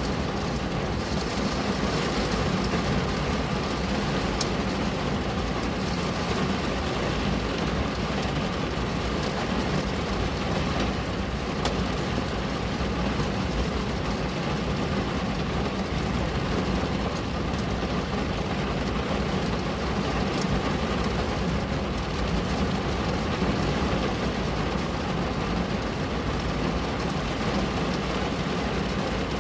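Steady rain on a window: an even hiss with a deep low rumble underneath and an occasional sharp tick of a single drop.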